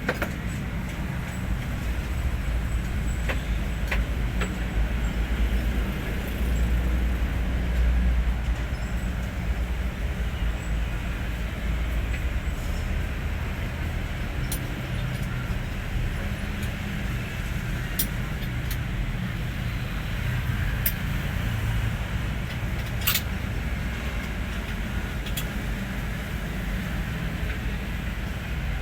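Hino 500 truck's diesel engine running steadily with a low rumble, and a few light clicks scattered through it.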